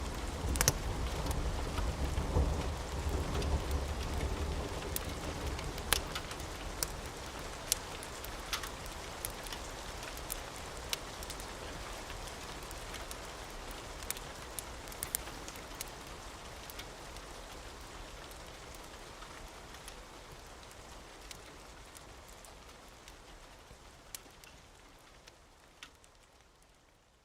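Steady rain with scattered sharp crackles from a wood fire and a low rumble of thunder dying away in the first few seconds; the whole mix fades out gradually toward the end.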